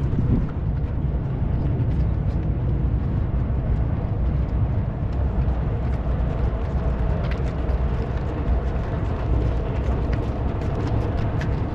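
Marathon runners' footsteps, a continuous irregular patter of many shoes on pavement, over a steady low rumble.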